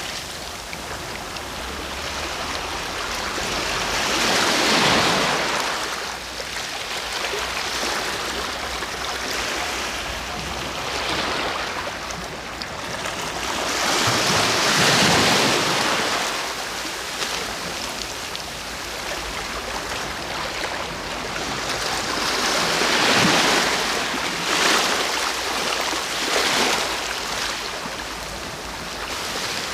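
Sea waves breaking and washing on the shore in a steady hiss of surf. It swells into a big breaker about every eight to ten seconds, with a couple of smaller surges close together near the end.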